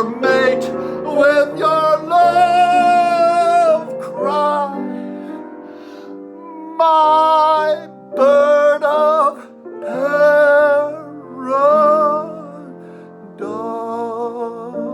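A voice singing a slow song in long held notes with vibrato, in phrases of one to two seconds broken by short pauses, over sustained instrumental accompaniment.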